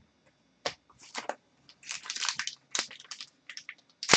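Plastic wrap and cardboard packaging of a hockey card box being handled and torn open, crinkling and crackling in irregular bursts.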